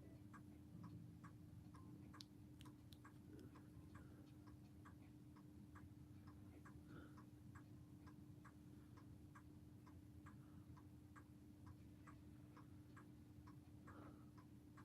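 Faint, even ticking of a mechanical clock, about two and a half ticks a second, over a steady low hum.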